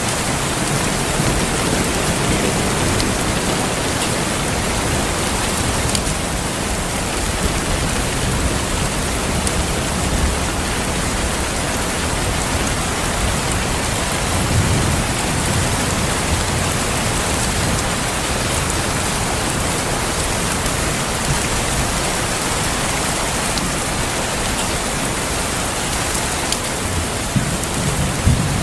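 Steady heavy rain falling, an even hiss, with low rumbles of distant thunder swelling up briefly a few times: a couple of seconds in, around the middle and near the end.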